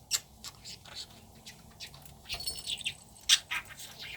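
Pet budgerigar chirping and chattering in a quick string of short, high calls.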